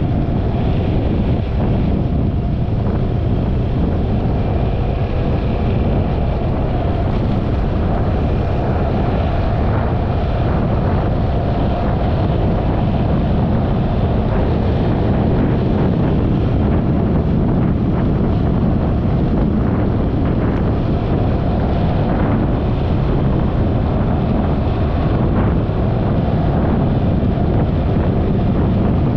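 Steady wind rush over the microphone of a moving Yamaha XMAX 300 scooter, with the scooter's engine running under it at a constant pace.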